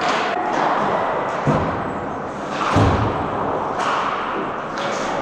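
Ice hockey game in a rink: two dull thuds, about a second and a half and about three seconds in, over steady arena noise.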